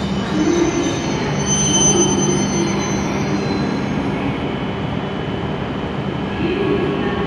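E7/W7-series Shinkansen train rolling slowly into the platform and drawing to a stop, with a steady running hum and a high brake squeal strongest about two seconds in.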